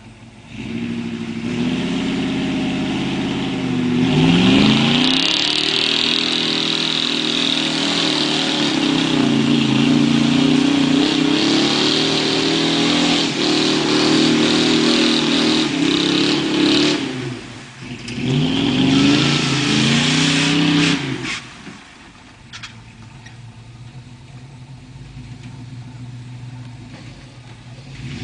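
Pickup truck engine revving hard under load, its pitch climbing and falling, with a loud rushing hiss over it. It eases off briefly about two-thirds of the way through, revs up again, then drops suddenly to a low, steady running sound.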